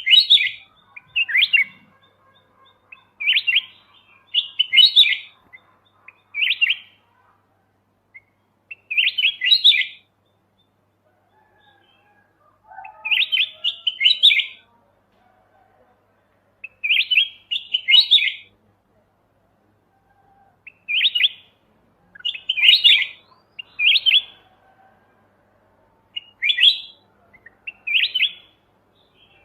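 Kutilang emas mata putih (white-eyed golden bulbul) singing: short, loud warbled phrases repeated every second or two, broken by a few longer pauses.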